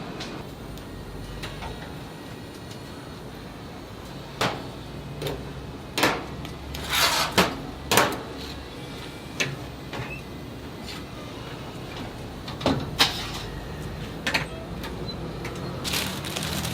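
Irregular knocks and clatters of utensils and containers being handled and set down during food preparation, busiest from about six to eight seconds in, over a steady background noise.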